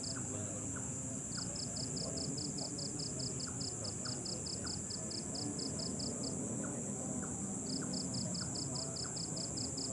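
Night insects: a steady high-pitched drone with a cricket chirping in even pulses about four times a second, breaking off twice for a second or so, over a low background rumble.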